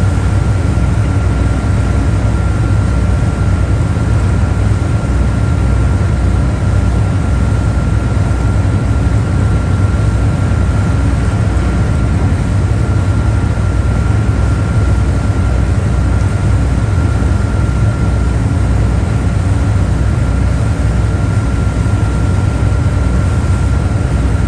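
Boat engine running steadily, a loud low drone with a thin steady whine above it.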